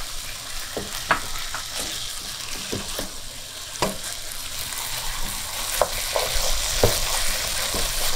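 Beef, onions and tomato paste sizzling in hot oil in a pot while a wooden spoon stirs them, scraping and knocking against the pot many times. The sizzle grows a little louder about halfway through.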